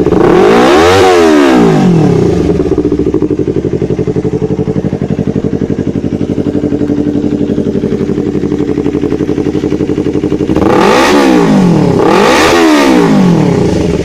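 Yamaha YZF-R25's 250 cc parallel-twin engine through a WRX GP6 aftermarket exhaust, revved once at the start and falling back to a steady pulsing idle. Near the end it is blipped twice in quick succession, then settles back to idle.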